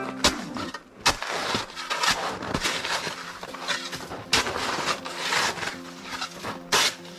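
Snow shovel striking and scraping hard-packed, frozen snow, breaking it up with several sharp, irregular impacts.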